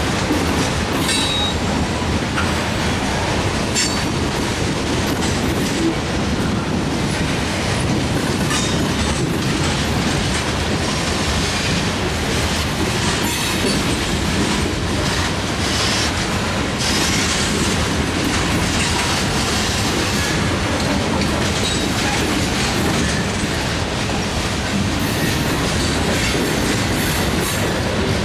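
Covered hopper cars of a freight train rolling past: a steady rumble of steel wheels on rail, with clacks as the wheels pass over rail joints and a brief high wheel squeal about a second in.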